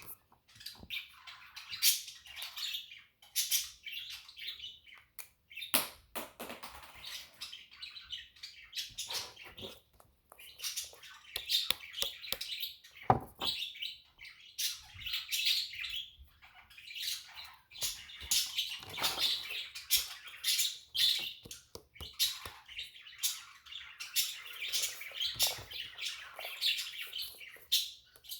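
Pet budgies chattering and chirping continuously, with busy, irregular warbles and clicks.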